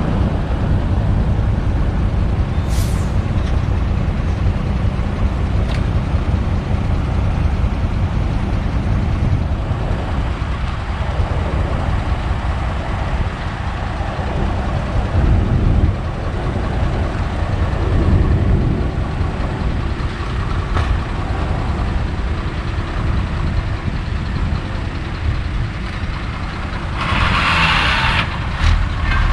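Heavy diesel engine of a Kobelco SK200 excavator running steadily under load as it digs and loads soil, with a short hiss of air near the end.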